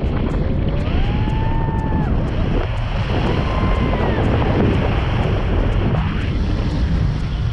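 Heavy wind buffeting the microphone in flight on a tandem paraglider, a steady low roar. Two drawn-out pitched tones rise and then hold over it, about half a second in and again about three seconds in.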